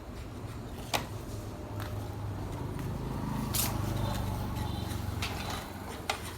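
Low electric-motor hum that swells from about a second in and fades near the end, with sharp clicks about a second in, in the middle and near the end.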